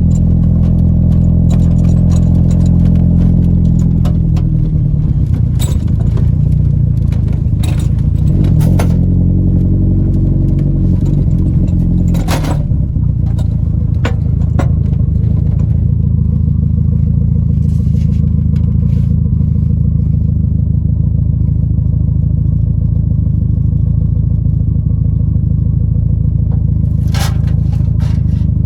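Car engine running, rising and falling in pitch twice in the first twelve seconds and then holding steady, with scattered clicks and scrapes.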